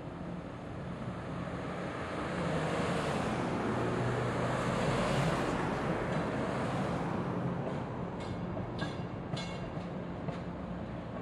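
Los Angeles Metro light rail train running past. Its rumble builds to a peak in the middle and then eases, with a run of sharp wheel clicks near the end.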